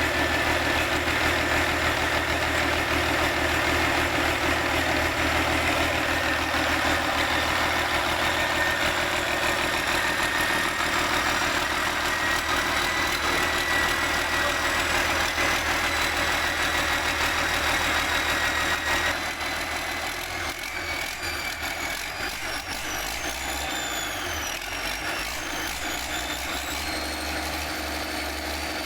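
A machine running steadily, with a whine that rises slightly in pitch. About 19 seconds in it drops in level and changes character, and high, gliding whines come and go near the end.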